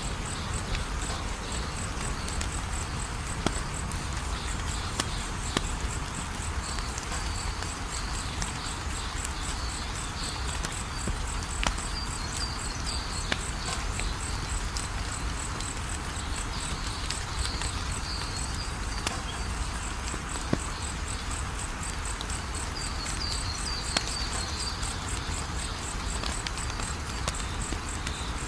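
Wood fire crackling steadily, with scattered sharp pops standing out above the hiss. Behind it runs a high, rapidly repeating insect-like chirp, with occasional lower chirps.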